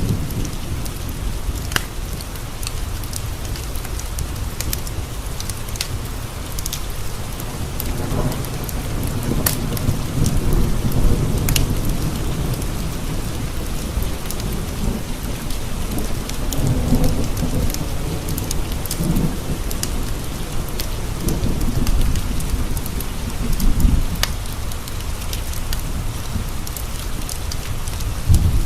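Steady rain on windowpanes, with scattered sharp ticks, and low rolling thunder that swells and rumbles through the middle.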